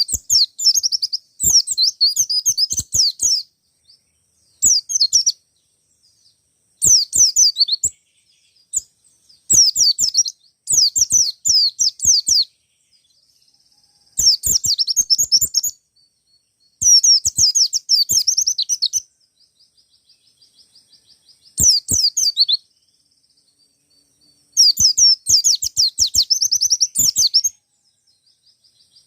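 Wild white-eye singing: fast, high twittering phrases of one to three seconds, repeated about ten times with short pauses between, the loud chattering song used to provoke other white-eyes into singing. A faint high trill sounds in some of the pauses.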